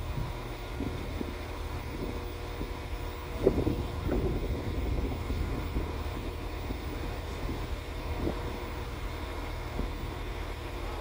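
Northern class 158 diesel multiple unit arriving at low speed: a steady low engine rumble, with a few short clunks as it runs over the pointwork, the loudest about three and a half seconds in. Wind buffets the microphone.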